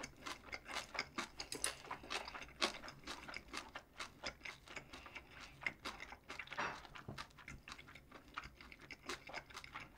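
Close-miked chewing of food: a run of small, irregular wet clicks and crunches from the mouth.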